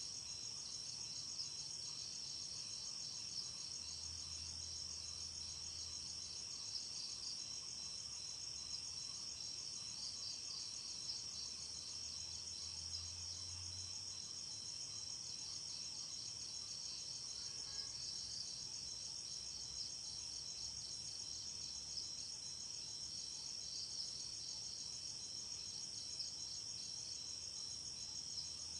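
A chorus of crickets chirping steadily at night, a continuous high trill with a fast pulsing texture.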